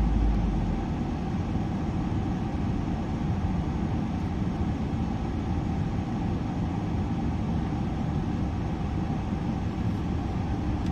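Ford Edge SUV driving, with steady road and engine noise. A deeper low rumble eases off just after the start.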